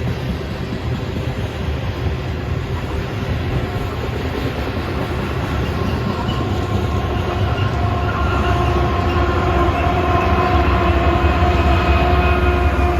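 Freight train rolling by, a continuous rumble that grows louder over the second half, with a steady whine joining in about halfway through.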